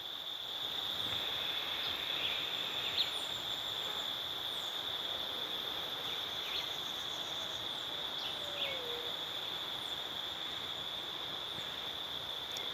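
Steady insect chorus: a continuous high, even buzz, with scattered short, high chirps over it.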